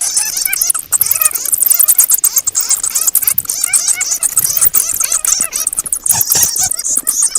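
Many bats squeaking and chattering together: rapid, overlapping high-pitched squeaks and chirps with clicks throughout, and a few low thumps about six seconds in.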